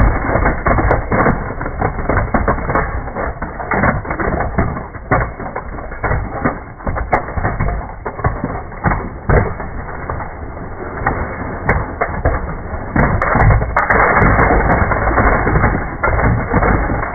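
Dense, continuous clatter of many small die-cast metal toy cars pouring out of a bin and knocking together, slowed down with the slow-motion footage so the knocks run together into a low, dull rumble, heaviest near the end.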